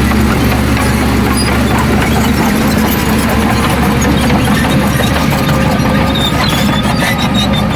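Heavy diesel engine of an earthmoving machine running steadily, with a faint thin squeal and scattered clicks and clanks over it.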